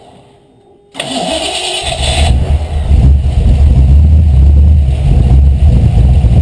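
A Miata's swapped-in carburetted 5.0 V8 is quiet for about a second, then starts abruptly and settles into a loud, steady run. Its mixture screws have just been turned in because it was running too rich.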